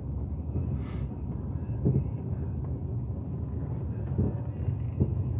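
Steady low rumble of a four-wheel-drive vehicle's engine and tyres on a snowy, icy road, heard from inside the cab, with a few light knocks about 2, 4 and 5 seconds in.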